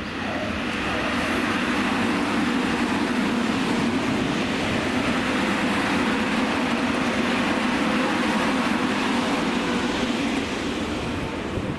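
Tobu 30000 series electric commuter train passing by, a steady rumble of wheels on rail that swells about a second in and eases off near the end.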